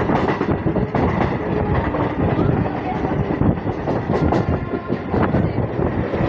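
Hyderabad MMTS electric multiple unit local train running, heard from its open doorway: a continuous rumble of wheels on rail with irregular clattering knocks as the coaches pass over rail joints and points.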